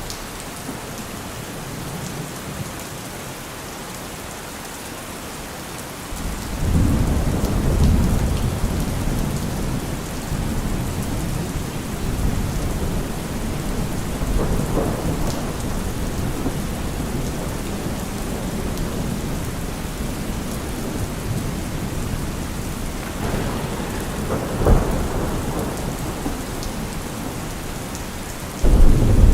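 Steady rain with rolling thunder. A deep rumble swells about six seconds in and fades slowly, a sharper crack comes a little before the end, and another loud rumble starts right at the end.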